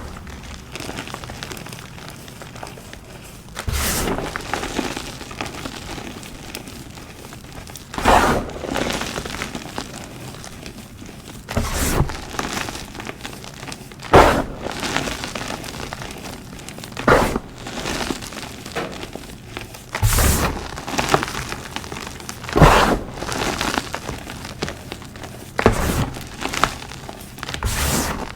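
Pasted blocks of dyed gym chalk being crushed: about nine sharp crunches, one every two to three seconds, each trailing off into soft crumbling.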